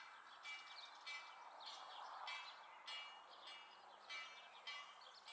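Birds chirping in short repeated phrases over a steady high hiss. Beneath them is a faint wash of noise from the train still approaching in the distance.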